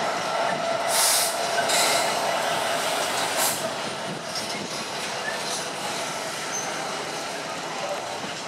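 Freight train of hopper wagons hauled by a Freightliner Class 66 diesel locomotive, rolling past with a steady noise of wheels on rails. Three short sharp bursts of noise come in the first three and a half seconds, and then the rolling eases a little.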